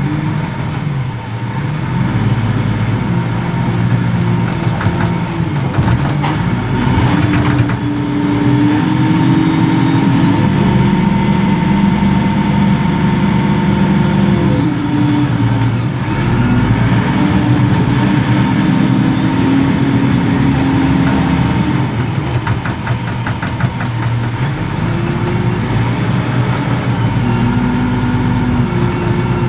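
Reach stacker's diesel engine running under working load, revving up and easing back down several times, with a thin steady whine over it.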